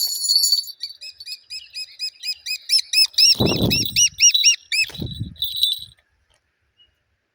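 Juvenile falcon calling: a high screech, then a fast run of sharp, repeated kek-like notes, about four a second, that stops about five seconds in. Two bouts of low thumps come in the middle of the run.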